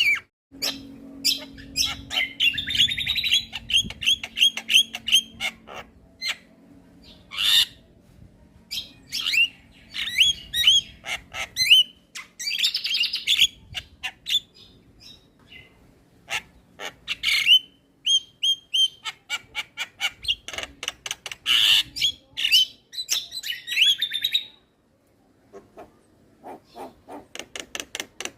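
Javan mynas in full song, a busy run of chirps, rattling trills, whistles and harsh squawks packed close together, with a short lull near the end.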